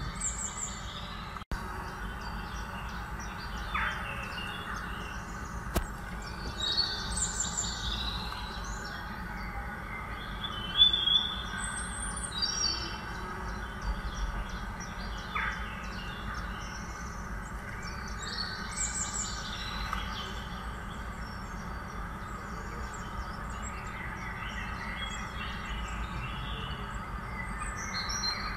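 Small birds chirping and calling on and off over a steady outdoor background hiss.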